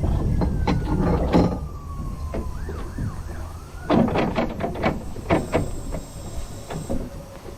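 Narrow-gauge train running, with a thin wheel squeal that rises and then slowly falls in pitch over the first three seconds, wavering near its end, and repeated sharp clanks and knocks from the wheels and couplings, thickest about four to six seconds in.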